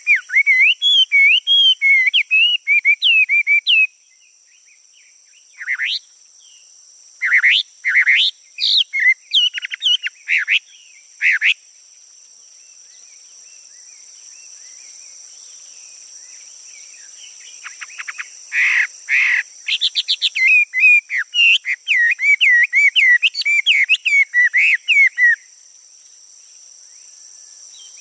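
Male songbird singing in three bouts of quick, warbling, up-and-down notes with pauses between, over a steady high-pitched insect drone.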